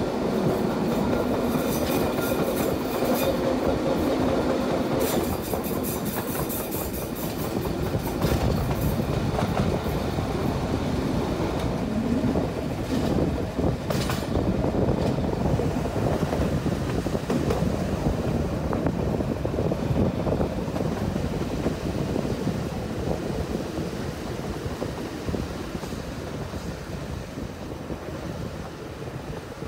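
Fiat M4 diesel railcar running along the line, heard from a carriage window: steady wheel-and-rail noise with the clickety-clack of the wheels over rail joints. It grows quieter over the last few seconds as the railcar runs alongside a station platform.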